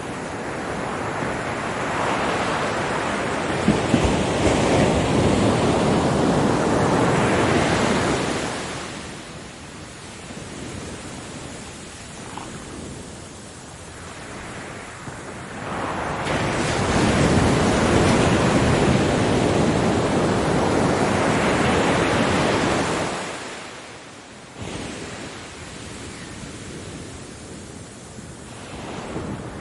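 Ocean waves breaking on a beach: two big surges of surf about seven seconds apart, each building over a few seconds and then washing back into a quieter hiss of receding water.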